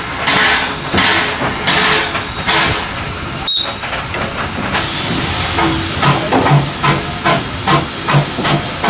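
Steam locomotive working: slow, regular exhaust chuffs, then from about halfway a steady high hiss of steam over a faster rhythmic thumping.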